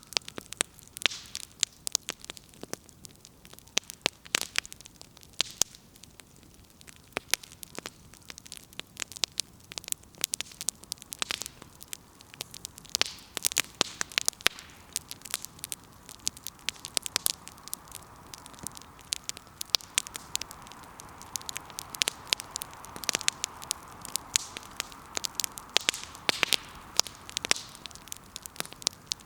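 Firewood burning in an open fire, crackling with sharp, irregular pops and snaps. A soft hiss builds up in the second half and fades near the end.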